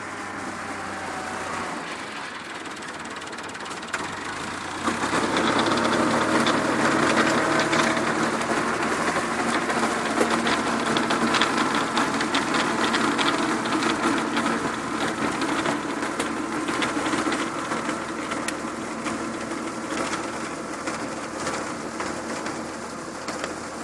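Tractor engine running steadily with a rattling clatter, growing clearly louder about five seconds in and staying loud.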